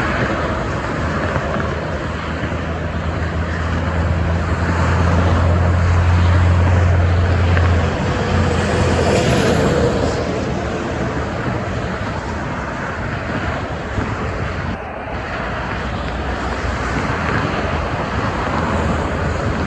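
Steady multi-lane expressway traffic. A heavy truck's low engine drone passes, swelling to loudest about six seconds in and fading out by about eight seconds.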